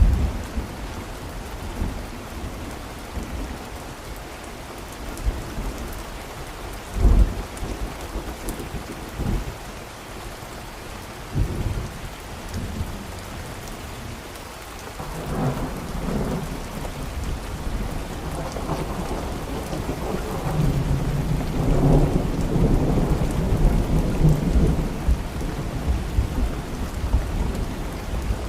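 Steady rain with thunder: several short low thunderclaps in the first half, then a long rolling rumble of thunder from about halfway through.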